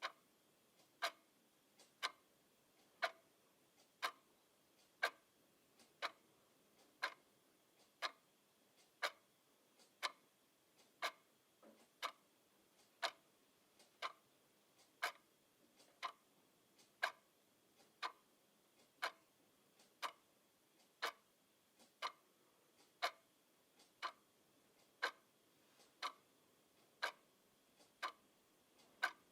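Clock ticking steadily, about two ticks a second, a louder tick alternating with a softer tock.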